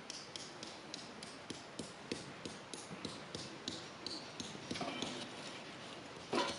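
A quick, fairly even run of light taps or clicks, about three a second, with a short scraping sound near the end.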